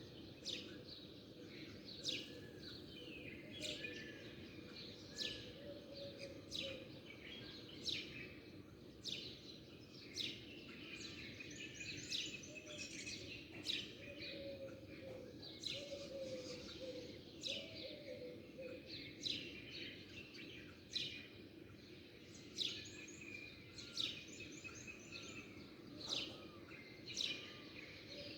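Many small birds chirping and twittering, with short, sharp, high chirps coming about once or twice a second over a steady low background noise.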